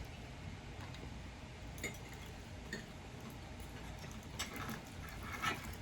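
A few faint, scattered clinks of cutlery against plates during a steak dinner.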